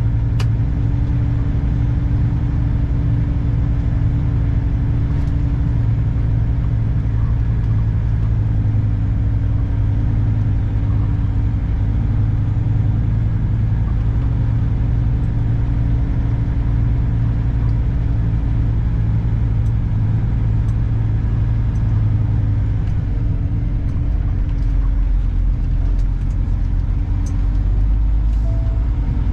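2021 Kenworth W900's diesel engine running steadily under way, a low, even drone, with the deepest rumble getting stronger in the last few seconds.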